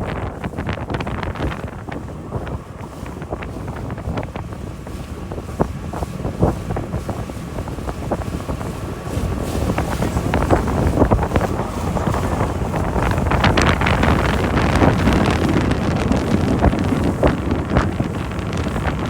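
A motorboat under way: wind buffeting the microphone over the rumble of the engine and rushing water, growing louder about halfway through.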